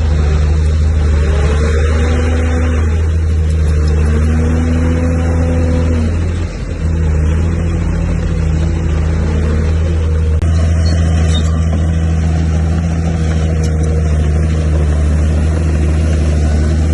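Heavy diesel engine of earthmoving machinery running steadily under load, a deep even drone, with faint whines that rise and fall over it. The sound dips briefly about six seconds in.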